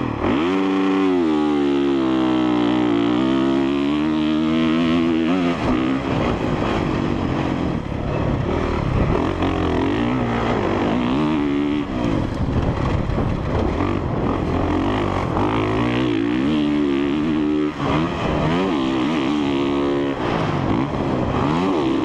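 Honda CRF450R dirt bike's 450cc single-cylinder four-stroke engine accelerating hard from a standing start. Its pitch sweeps sharply up about half a second in, then climbs and drops repeatedly as the rider shifts and rolls the throttle on and off.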